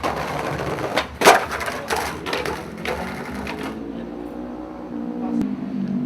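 Skateboard wheels rolling over rough pavement, with several sharp clacks of the board; the loudest comes about a second in. Near the middle the rolling stops and a low steady hum with a shifting pitch is left.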